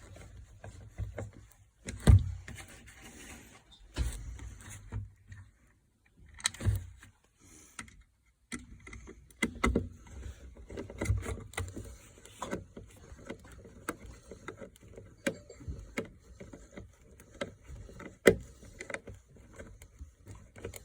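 Irregular metallic clicks, knocks and rattles of hand work on a car door lock being refitted, with a sharp knock about two seconds in and another near the end.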